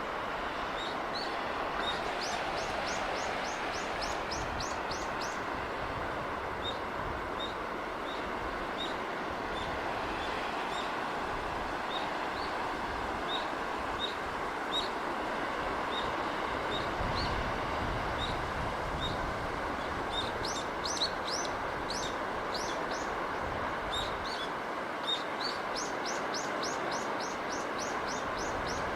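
Steady rush of sea surf and breeze with birds chirping over it: single high chirps every second or so, and runs of quick, high, falling notes about two seconds in and again in the last third.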